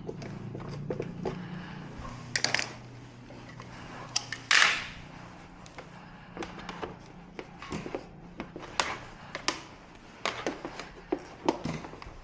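Scattered clicks and knocks of hands working on objects, with one louder, longer noise about four and a half seconds in, over a low hum that fades after the first few seconds.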